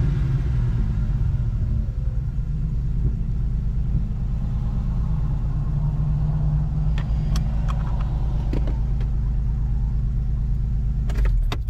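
Ford EL Falcon's 4.0-litre SOHC inline-six running steadily at idle through Pacemaker 4499 headers, a Venom high-flow catalytic converter and a 2.5-inch sports exhaust, with a deep, even exhaust rumble. A few light clicks sound over it in the second half.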